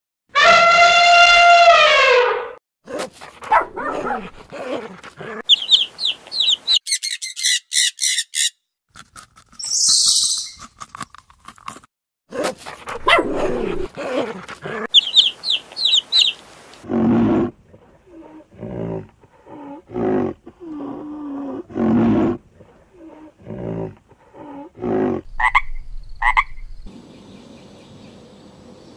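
A succession of different animal calls, one after another. First comes a long pitched call that falls at its end, then high rapid chirping trills, and in the second half a series of short low calls about once a second.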